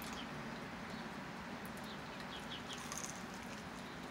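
A bird chirps a quick run of three or four short, falling notes about two and a half seconds in, over steady outdoor background noise with a low hum.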